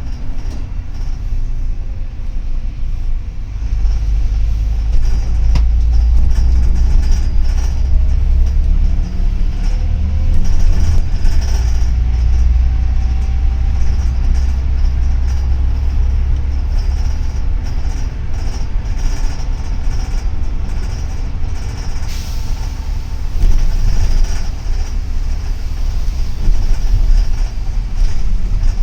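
Double-decker city bus running, heard from inside the cabin: a steady low engine and road rumble that grows louder about four seconds in, with faint whining tones rising and falling above it.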